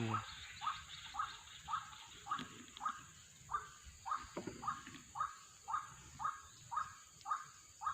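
White-breasted waterhen (kruwok) calling: a short note repeated steadily about twice a second.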